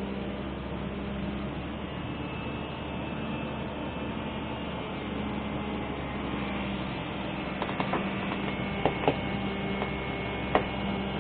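Steady machine hum at one fixed pitch, with a few sharp metallic knocks and clicks in the last few seconds.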